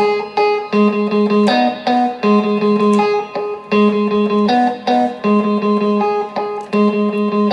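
Guitar playing a short riff that repeats about every one and a half seconds, as the instrumental intro of a slow soul-blues song.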